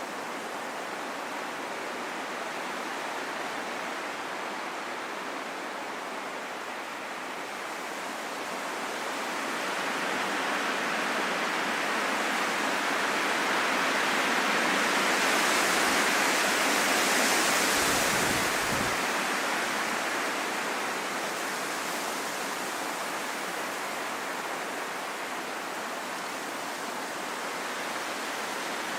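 Rain falling steadily, an even hiss that grows louder towards the middle and then eases off again.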